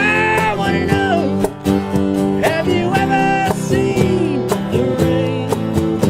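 Band music: strummed acoustic guitar over a steady drum beat, with a lead melody line that slides and bends in pitch above it.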